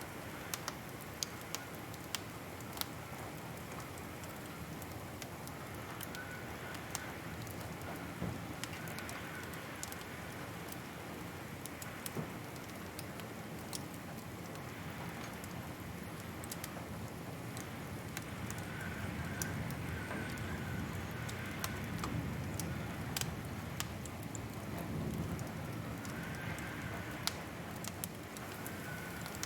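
Wood fire crackling: irregular sharp pops and snaps over a steady low rush of burning flames, which grows a little fuller in the second half.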